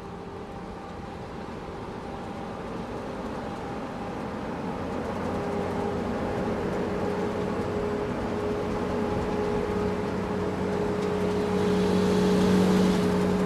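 A motor vehicle's engine running at a steady pitch, growing steadily louder as it comes closer.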